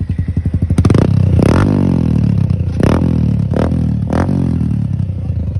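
Suzuki Gixxer 150's single-cylinder engine through an aftermarket silencer, loud and revved in several sharp throttle blips, the revs falling away between them. The speaker calls the sound inhuman.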